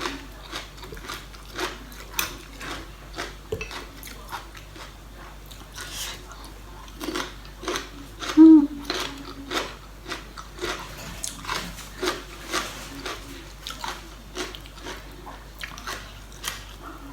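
Wooden pestle pounding vegetables in a mortar for papaya salad: repeated knocks with a crunch, roughly two a second. A brief voice-like sound about eight seconds in is the loudest moment.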